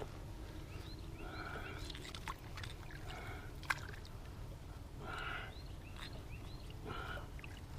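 Quiet outdoor boat ambience: a steady low rumble with a few sharp knocks, and a bird calling about four times, one short call every couple of seconds.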